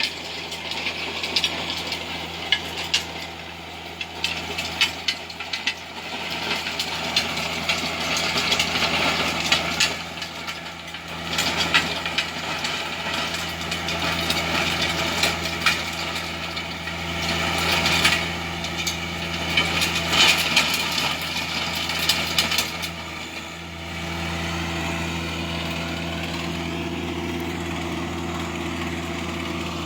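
Tractor engine running steadily while it tills the ground, with irregular scraping and crackling from the implement working soil and debris; near the end only the steady engine remains.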